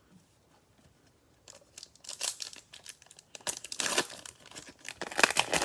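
Plastic cellophane wrapper of a trading-card cello pack crinkling and tearing as it is opened, starting about a second and a half in, with the loudest tearing near the middle and near the end.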